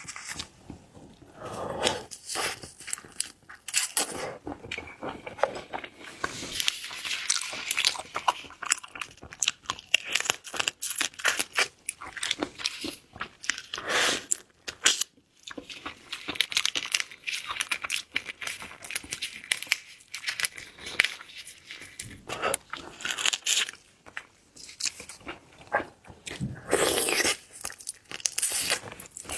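Close-miked eating of seafood: irregular crunching, biting and wet chewing, with a few heavier bites scattered through.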